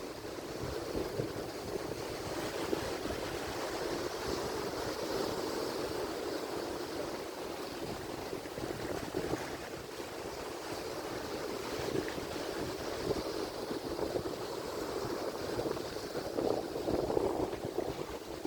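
Atlantic Ocean surf: waves breaking and washing in a continuous rushing noise that swells louder near the end, with some wind buffeting the microphone.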